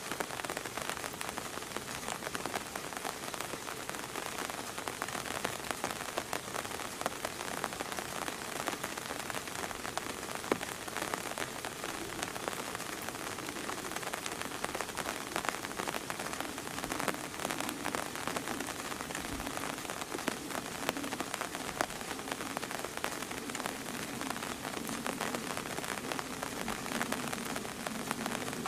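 Steady rain falling, a dense stream of small drop hits on hard surfaces, unchanging throughout.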